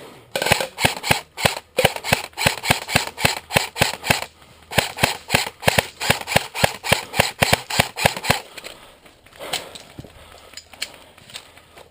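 Airsoft electric rifle firing a rapid string of semi-automatic shots, about four a second, with a short break near the middle. A few scattered shots follow near the end.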